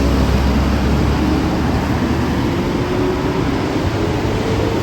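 Heavy road vehicle going past close by, its engine pitch rising slowly as it accelerates over a loud low rumble and road noise.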